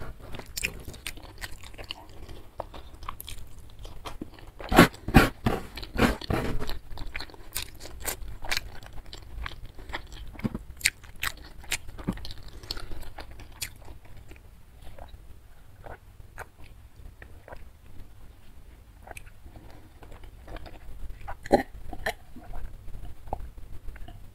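A person chewing a mouthful of food close to the microphone: wet mouth clicks and crunches, loudest about five to six seconds in.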